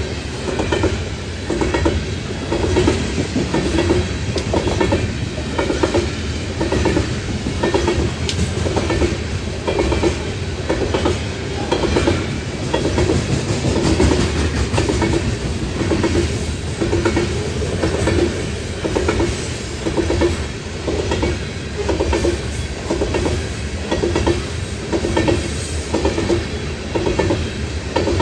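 Freight cars of a BNSF coal train rolling past, wheels clicking over rail joints in a steady repeating rhythm, roughly one group of clicks a second, over a continuous rumble.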